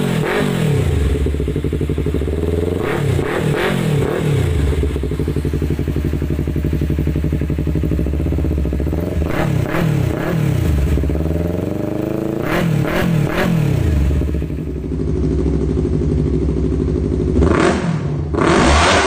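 Motorcycle engine breathing through an Akrapovic full exhaust system, idling and revved in short throttle blips every few seconds, the pitch climbing and falling back to idle each time.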